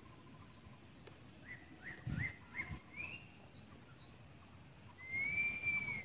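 Wild bird calling: a run of short rising chirps, then one long arched whistle near the end. A couple of low thumps come about two seconds in.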